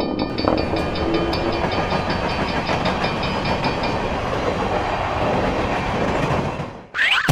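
A train running past a level crossing with clattering wheels, while the crossing bell dings about four times a second. The bell stops about four seconds in, and a short rising squeal is heard near the end.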